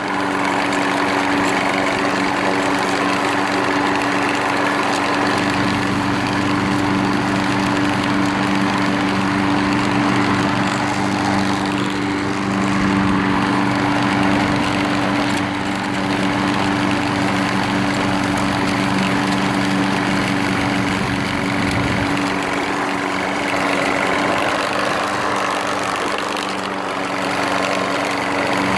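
Troy-Bilt front-wheel-drive walk-behind mower's small engine running steadily at an even speed.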